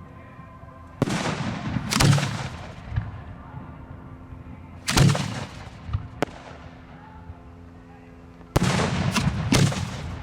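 Aerial fireworks shells firing and bursting, heard close to the launch site: sharp booms with echoing trails, one about a second in, a louder one near two seconds, another around five seconds, then three in quick succession near the end.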